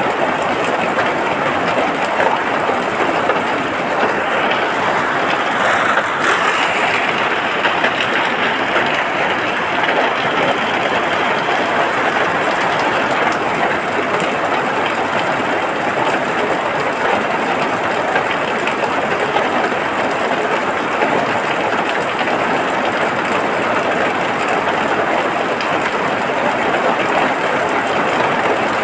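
Rain falling steadily, an even, dense hiss with no breaks.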